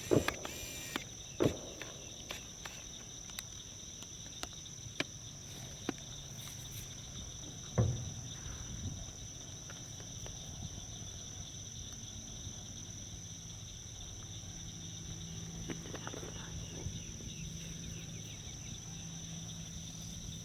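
Steady, high-pitched chorus of marsh insects, with a few sharp knocks and thumps, the loudest just after the start and about eight seconds in.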